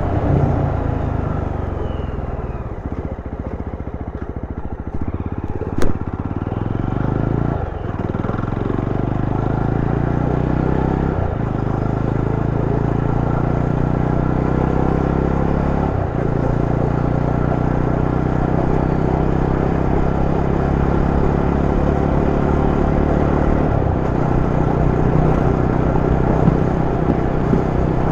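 Yezdi Roadster motorcycle's single-cylinder engine heard from the rider's position, revs falling for the first few seconds, with a sharp click about six seconds in. It then picks up again, with short breaks in the note as it changes up through the gears, and settles into a steady cruise.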